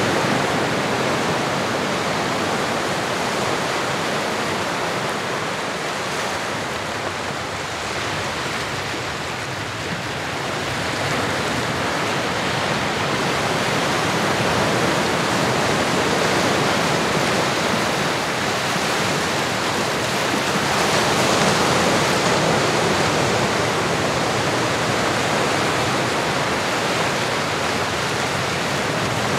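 Recorded ocean surf: a steady, dense wash of waves that slowly swells and eases, dipping a little about a third of the way in.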